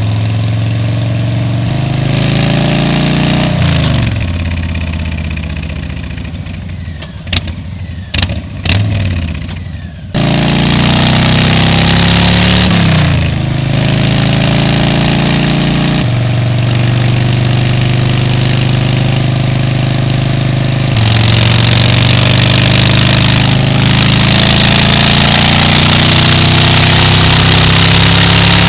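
Motorcycle engine and exhaust running on the road, its note stepping and falling with gear changes and throttle. About a third of the way in it goes quieter, with a few sharp clicks. Then it pulls hard again and stays loud, with rising wind rush.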